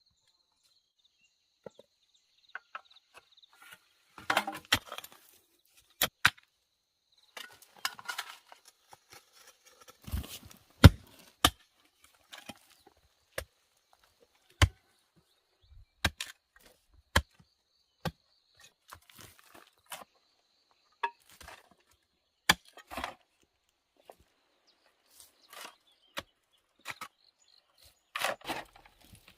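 Wood being chopped with a blade: irregular single sharp strikes a second or two apart, with a few longer spells of rustling and cracking between them.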